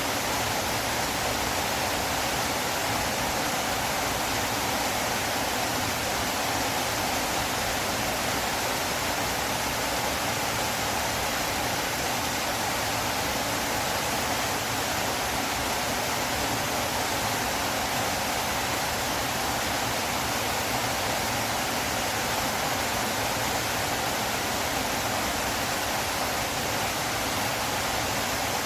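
Flowing river water rushing, a steady, even hiss with no change in level.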